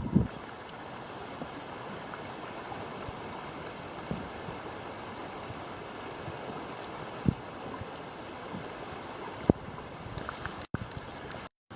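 Steady rush of river water with a few faint knocks, broken by two brief drop-outs to silence near the end.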